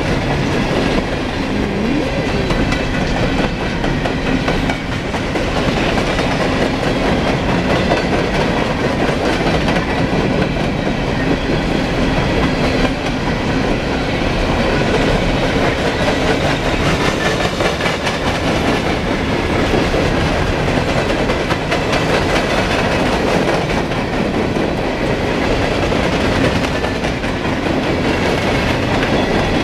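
Norfolk Southern coal train's open-top hopper cars rolling past on the near track: a steady, loud noise of steel wheels running over the rails.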